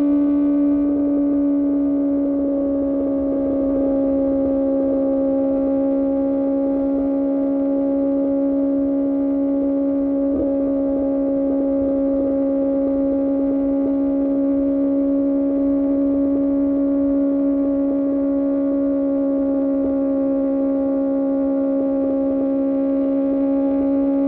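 QJ Motor SRK600's inline-four engine through an Austin Racing exhaust, held at steady revs: a constant droning note that dips slightly in pitch a couple of seconds in.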